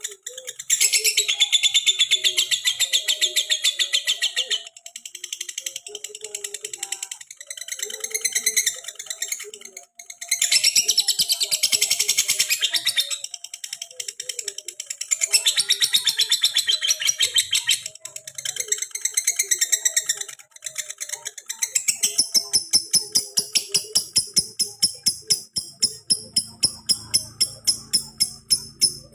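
Lovebird chattering in long, rapid, high-pitched trills lasting a few seconds each, over background music with a fast shaker-like rhythm.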